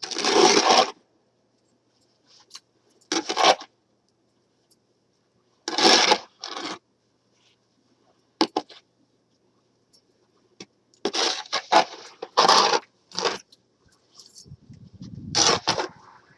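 A snow shovel scraping through snow, about nine short irregular strokes, with a low rumble under the last one near the end.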